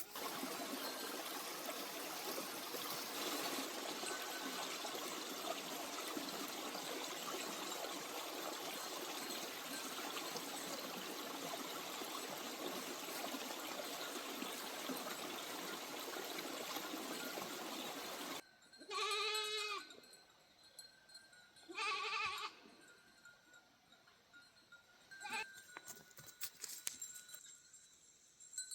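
A steady rushing noise runs for most of the stretch and then cuts off suddenly. A goat then bleats twice, two wavering calls about two seconds apart.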